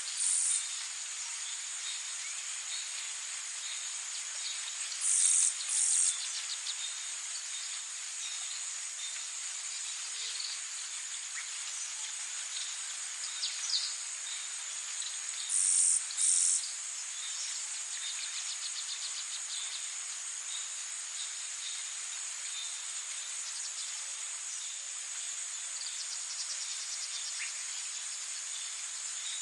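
Tropical forest ambience: a steady high-pitched insect chorus, with a louder high call in two short parts standing out three times (near the start, about five seconds in, and about sixteen seconds in) and faint scattered bird chirps.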